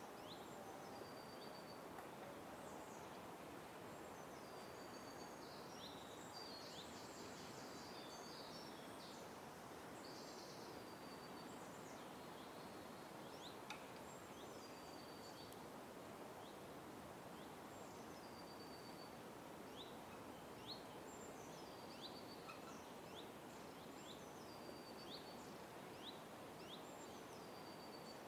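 Wild birds calling and singing in bursts all through: short, sharp, high chirps that drop in pitch, and stepped whistled phrases, with a busier chattering stretch early on. These sit over a faint, steady, even rushing background.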